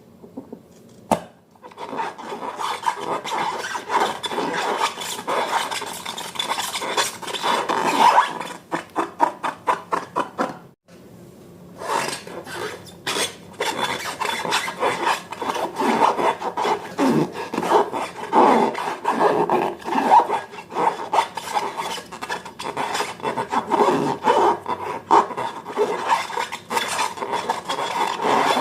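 Slime being mixed and worked: a dense, irregular run of sticky crackling and scraping, with a brief pause about eleven seconds in.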